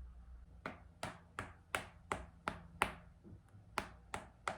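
A pair of shoes tapped together by hand in a steady walking rhythm, about three sharp clicks a second starting shortly in: a Foley imitation of someone walking in high heels.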